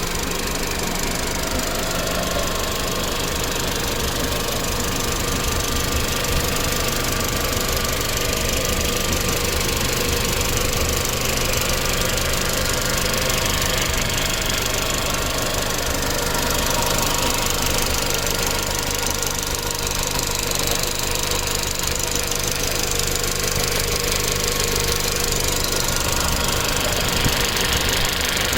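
Audi A4 1.8T turbocharged four-cylinder engine idling steadily with a fast, even ticking. The owner puts the tick down to too little oil pressure for the cam chain tensioner at idle.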